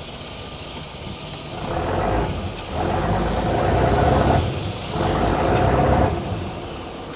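A fishing boat's diesel engine throttled up three times in quick succession, each surge lasting one to two seconds before dropping back to idle, as the boat manoeuvres close to another boat.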